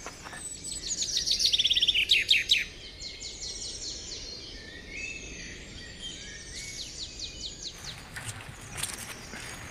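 Birds calling with a fast run of high chirps, loudest in the first couple of seconds, then softer chirping that stops abruptly near the end.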